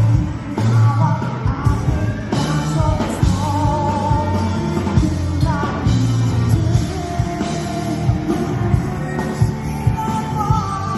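Live pop-rock band performance: a lead vocal sings the melody over drums, bass and guitars.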